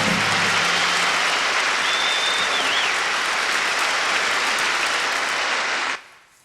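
Audience applauding steadily at the end of a song; the applause cuts off suddenly near the end.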